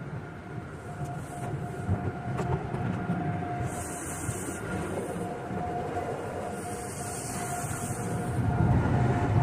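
Express car wash tunnel machinery running with a steady rumble and a constant whine, with two hissing bursts about four and seven seconds in.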